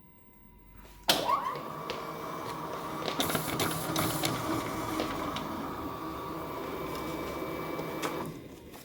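Inotec Scamax 6x1 production document scanner starting up about a second in, its rollers and paper transport running steadily as a batch of pages feeds through, with sharp clicks and rattles along the way, then stopping about a second before the end.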